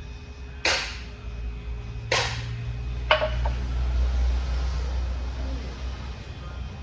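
Three sharp metallic knocks, each a second or so apart, the last one ringing, over a low steady hum that swells in the middle: metal parts being struck or set down during transmission assembly.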